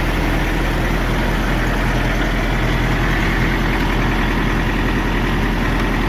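Diesel engine of a trailer refrigeration (reefer) unit running steadily and loudly at close range.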